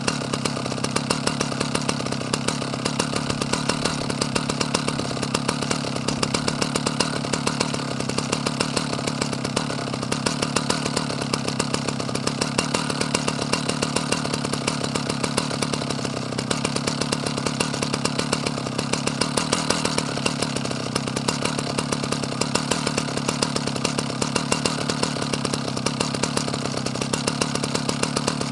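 Husqvarna L65 two-stroke chainsaw engine running steadily at an even speed, without revving.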